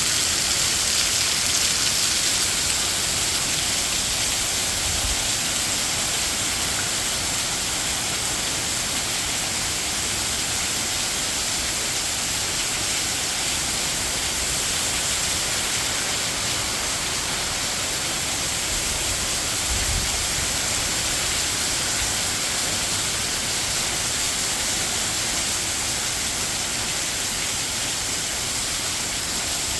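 Heavy rain pouring steadily, an even hiss with no let-up, with a faint low bump of wind about a third of the way in and again past the middle.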